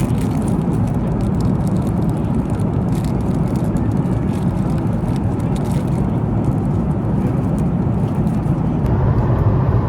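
Steady low rumble inside a moving vehicle, with light clicks and rattles on top, growing slightly louder near the end.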